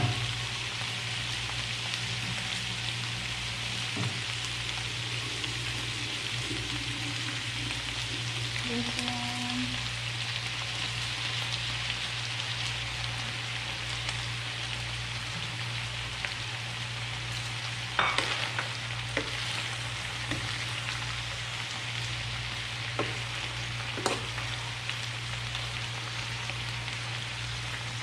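Chicken, potato and carrot pieces frying in a wide metal pan, a steady sizzle over a low hum. A few sharp clicks come about two-thirds of the way through.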